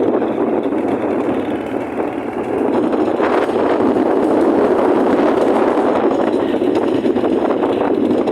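Steady rushing noise of a motorcycle under way, wind and engine running together with no change in speed.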